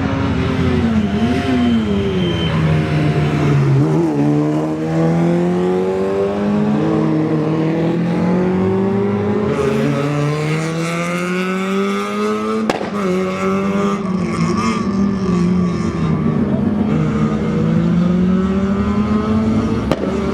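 Rally car engines accelerating hard, the pitch climbing steadily and dropping at each gear change, again and again. A sharp crack comes about twelve seconds in.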